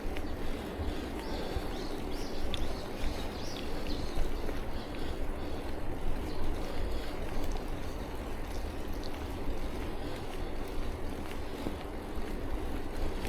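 Wind buffeting the action camera's microphone and bicycle road noise while riding, a steady low rumble with a hiss above it. A few short high chirps come in the first few seconds.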